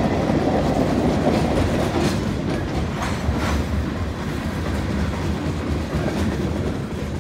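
Freight train cars rolling past on the rails: a steady low rumble with wheels clicking over rail joints a few times, easing off slightly as the tail end of the train goes by.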